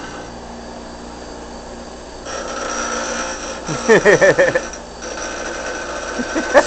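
An angle grinder whines as it runs, its steady tone coming in about two seconds in, while a dog barks in a quick burst of high yaps about four seconds in and again at the end.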